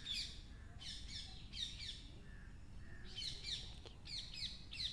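Birds chirping: short runs of quick, high, down-slurred chirps, one run every second or so.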